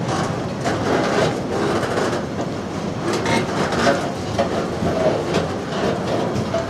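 Container wagons of a freight train rolling past close by: a steady rumble of steel wheels on rail, with repeated clicks and knocks as the wheelsets cross rail joints.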